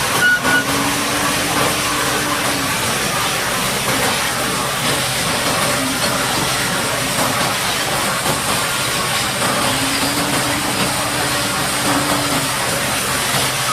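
High-pressure water jet spraying mud off a bulldozer: a loud, steady hiss, with a low engine note underneath. Two short beeps sound just after the start.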